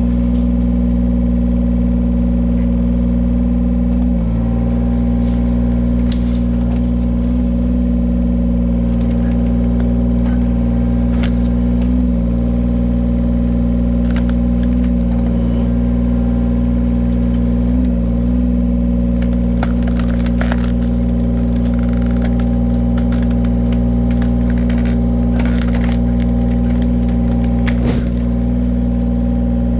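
Engine of a wood-cutting machine running steadily, dipping slightly under load a few times, while logs crack and splinter as they are split, in sharp scattered snaps.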